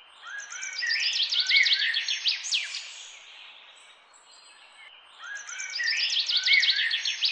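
Birdsong: a burst of rapid chirps and falling whistles lasting about two and a half seconds, then the same burst again about five seconds in, over a faint steady hiss.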